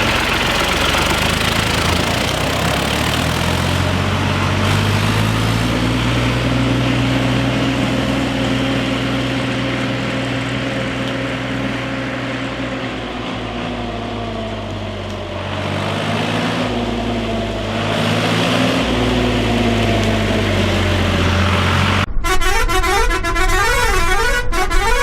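A long, droning horn-like vehicle tone whose pitch drifts slowly up and down, switching near the end to a fast warbling electronic tone.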